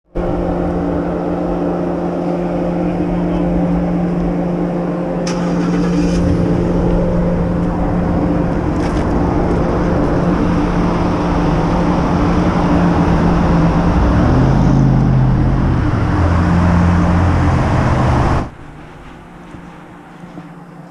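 A motor vehicle engine running steadily, its pitch shifting about three-quarters of the way through, then cutting off suddenly near the end.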